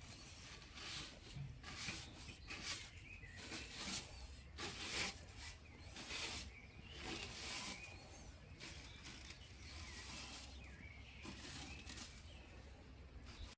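Irregular rustling, brushing strokes, roughly one or two a second, coming and going in loudness.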